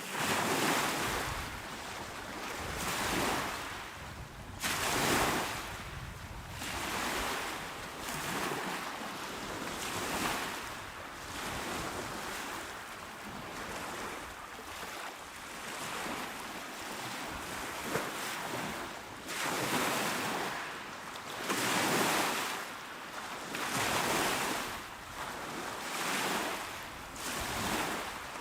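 Small, calm waves breaking and washing onto a shore, one swell every two to three seconds over a steady wash of surf.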